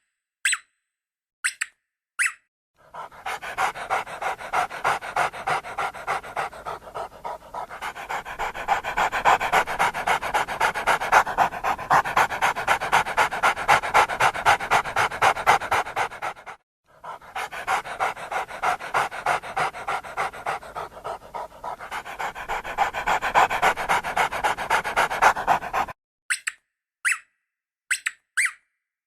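A dog panting fast and steadily, in two long runs with a short break about halfway through. A few brief high squeaks come before and after the panting.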